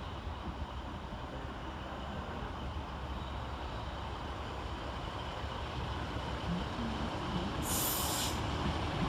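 Class 153 diesel railcar running into the platform, a low rumble of engine and wheels growing steadily louder. A short burst of hiss comes about eight seconds in.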